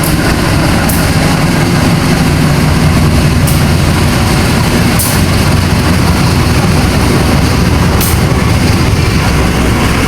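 Diesel engine of a passenger train running steadily at idle, a loud low rumble, with a few brief hisses at intervals.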